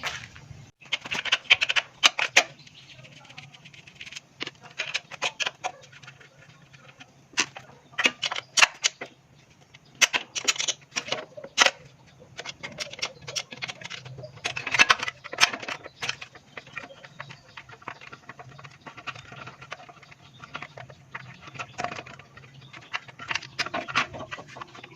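Irregular clicks, taps and knocks of hand tools and metal parts as a small rotovator engine is taken apart, in uneven clusters with short pauses between.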